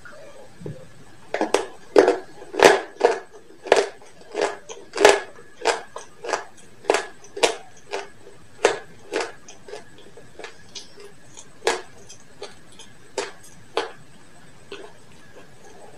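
Close-up chewing of crispy fried chicken: a run of sharp, irregular crunches, about one or two a second, loudest in the first half and growing fewer and fainter toward the end.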